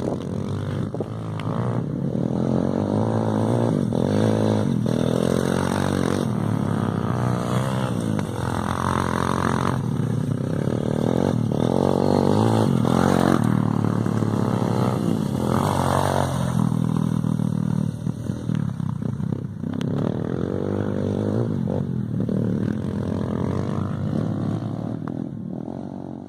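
Motocross bike engine running and revving, its pitch rising and falling over and over as the throttle opens and closes. It fades away at the very end.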